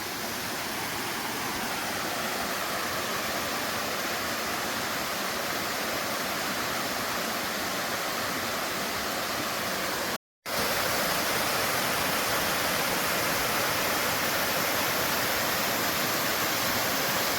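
Steady rushing of a stream and its waterfall in a gorge, an even wash of falling water. It cuts out for a split second about ten seconds in and comes back slightly louder.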